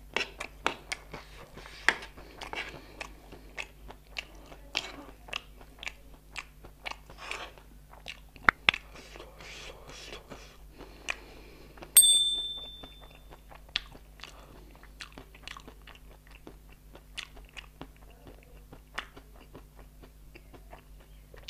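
Close-up crunching and chewing of dry chatpate, a crunchy spicy snack, with a metal spoon clicking and scraping on the plate. About halfway through, a single bright bell chime rings out and fades within about a second.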